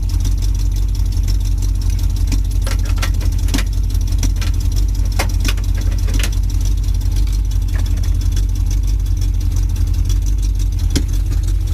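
Carbureted Chevy small-block V8 with Vortec heads and a Holley carburettor idling steadily, still cold, shortly after its first start of the season with no choke. A few short clicks sound over the idle.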